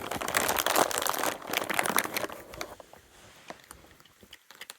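Crinkling and rustling as a supply of in-shell peanuts is handled, dense for about the first two and a half seconds, then a few scattered small clicks.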